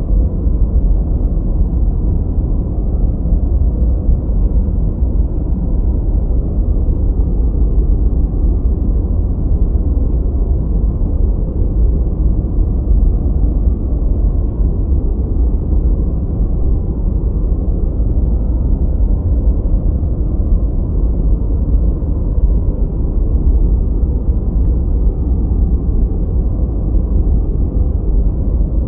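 Steady, deep noise for sleep or study, strongest in the bass and muffled, with nothing in the treble. It stays unchanged throughout: a brown-noise style masking sound rather than bright white hiss.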